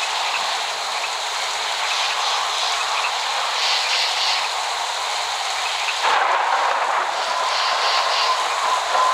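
Steady hiss of falling rain. About six seconds in, the sound changes abruptly, and a thin held tone comes in shortly after and carries on to the end.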